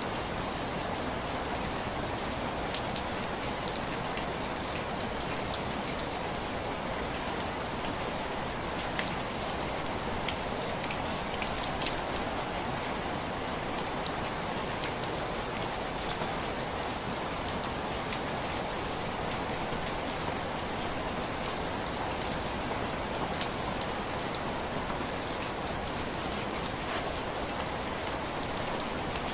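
Steady rain falling on window glass, an even hiss with scattered sharp ticks of individual drops.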